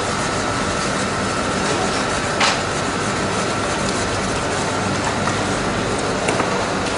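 Steady abrasive noise of a lacquered surface being sanded, with a faint steady whine and an occasional sharp click, one about two and a half seconds in.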